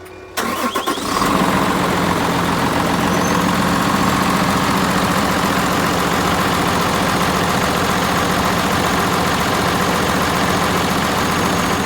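A motor starts with a few clicks, then runs loud and steady at an even pitch.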